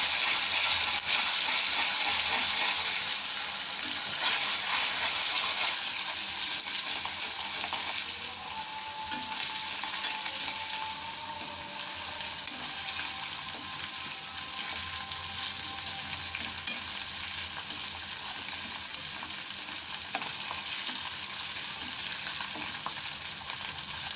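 Ginger-garlic paste sizzling in hot oil in a kadhai while being stirred, a steady hiss with faint scraping and ticks. It is loudest for the first several seconds and settles a little as the paste fries toward golden brown.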